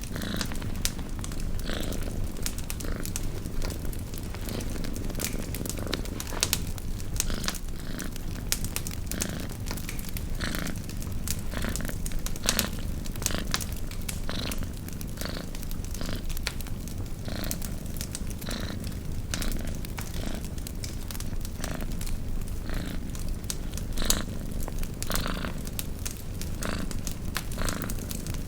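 A cat purring steadily, with a crackling campfire over it: frequent irregular snaps and pops from burning wood.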